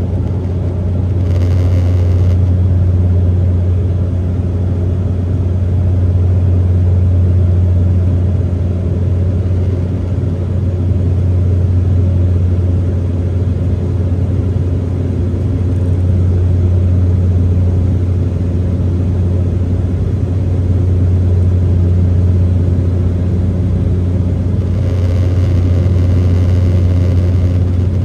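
Airliner cabin noise: a loud, steady low drone of the aircraft's engines with airflow rumble. A light hiss rises briefly about a second in and again near the end.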